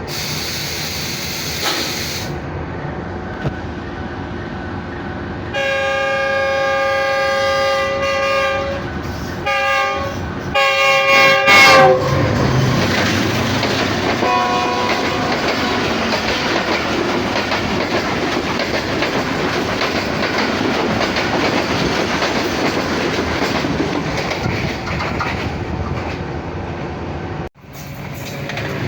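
A passenger train running through a station at speed: its locomotive horn sounds a long blast, then two shorter ones, the pitch dropping as it passes, and a short toot follows. The coaches then rush past with steady rumbling and clickety-clack of the wheels over the rail joints.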